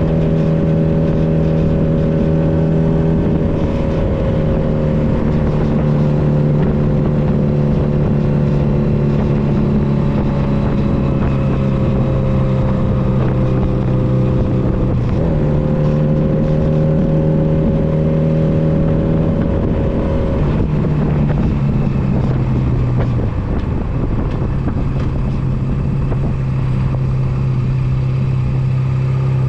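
Honda Nighthawk 250's air-cooled parallel-twin engine running at a steady pace under way, with constant wind rush. The engine pitch steps down about three seconds in, dips sharply and recovers around fifteen seconds, and drops again around twenty and twenty-three seconds.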